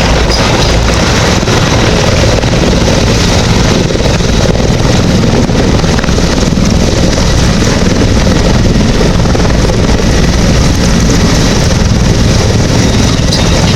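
Mil Mi-171Sh helicopter's rotor and twin turbine engines running, a loud steady thrum that holds without change.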